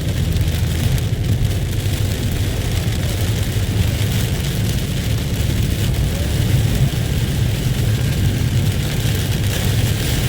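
Heavy rain falling steadily as a downpour, over a constant low rumble.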